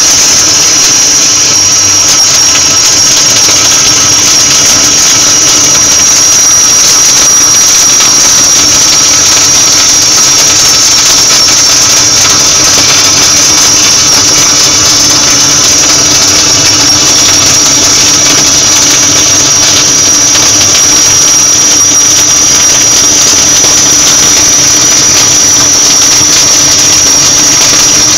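Gas-shielded flux-cored arc welding: a continuous steady arc crackle from one long uninterrupted weld, with a steady high-pitched whine over it.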